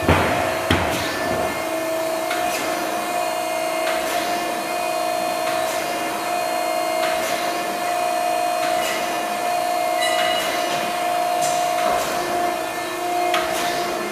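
Kent SGS-2040HD hydraulic surface grinder running, a steady two-tone motor hum with a short sharp click or hiss recurring about every one and a half seconds.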